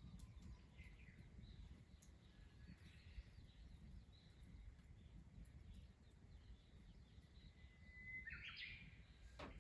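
Faint outdoor ambience with scattered distant bird calls over a low rumble; about eight seconds in, a bird gives a held whistled note that breaks into a short trill. A single faint click near the end.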